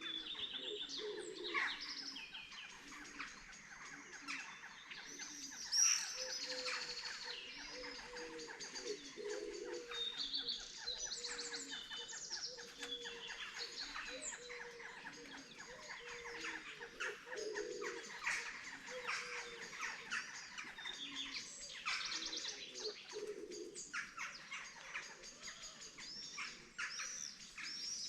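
Morning chorus of many songbirds chirping, trilling and singing over one another without pause, with a low call repeated at an even pace underneath.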